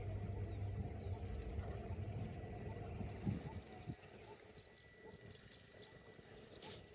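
Faint lakeside ambience with a bird's short, high, rapid trill heard twice, about a second in and again about four seconds in. A low steady rumble sits underneath for the first three seconds and then fades.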